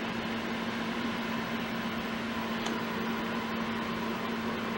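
Steady room noise: an even hiss with a constant low hum, like a fan or air conditioner running.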